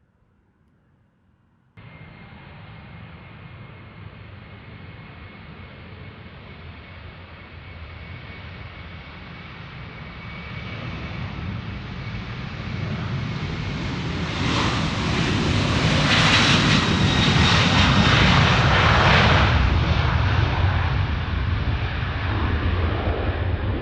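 Boeing 737-800's CFM56-7B jet engines at takeoff power: a steady whine over a low rumble that cuts in suddenly about two seconds in, grows louder as the jet comes closer, is loudest about 16 to 20 seconds in, then begins to fade as it passes.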